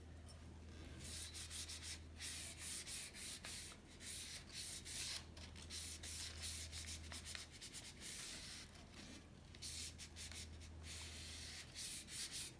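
Wet sandpaper rubbed by hand over the painted steel tubing of a vintage bicycle frame, in repeated back-and-forth rasping strokes with short pauses.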